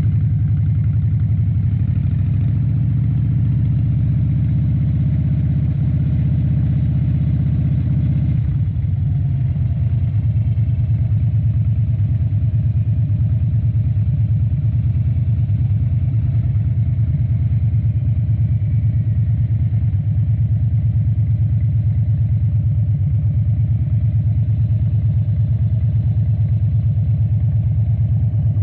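2013 Harley-Davidson Dyna Wide Glide's 103-cubic-inch V-twin engine running steadily at low revs, with its tone changing abruptly about a third of the way in.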